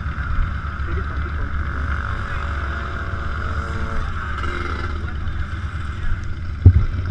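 Big motorcycle engine running with a low, steady rumble under a steady hiss, and one sharp thump near the end.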